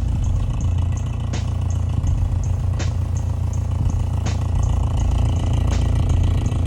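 An engine idling steadily with a deep, even rumble.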